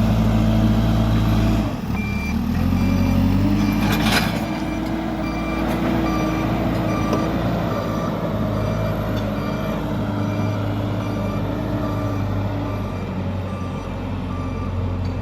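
JCB backhoe loader's diesel engine running under load. Its revs dip and pick up again about two seconds in, while its reversing alarm beeps about every half second. There is one sharp knock about four seconds in.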